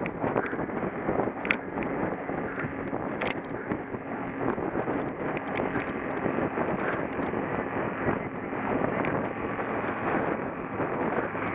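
Wind rushing over the microphone of a camera on a cyclocross bike being raced, with the bike's rattle and a few sharp clicks, two louder ones in the first few seconds.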